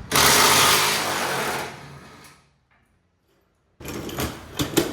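Impact wrench hammering on a K-member bolt for about two seconds to loosen it, then stopping. A quieter stretch with a few sharp clicks follows near the end.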